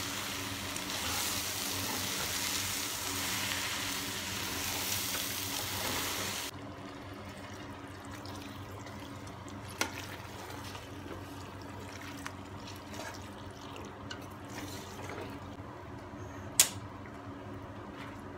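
Chopped vegetables and tomato paste sizzling in a stainless steel pot as they are stirred with a spoon. The sizzle cuts off suddenly about six seconds in, leaving quieter stirring with a few sharp clicks of the spoon on the pot, the loudest near the end.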